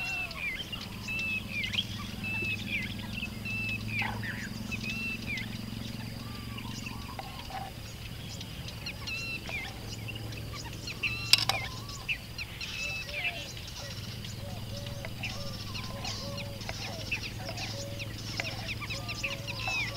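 Birds calling over and over in short chirps, with a low steady hum beneath. One sharp knock about eleven seconds in.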